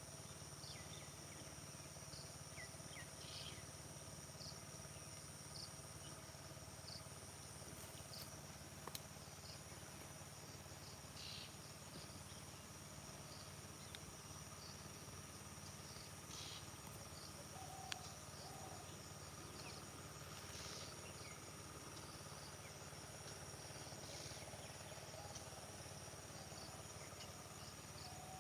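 Field insects shrilling in a steady, high, unbroken drone, with scattered short bird chirps over it.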